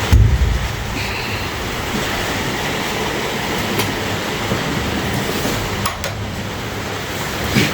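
A steady rumbling noise with a few sharp clicks, around six seconds in and again near the end.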